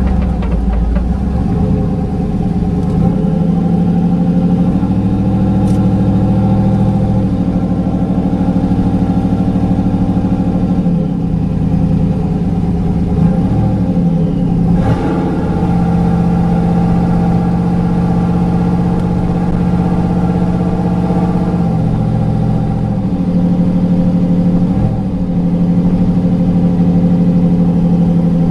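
Built 6.0L LQ9 V8 with headers and a performance cam, heard inside the truck's cab running at steady engine speeds that step up and down several times, with a sharp change about halfway through.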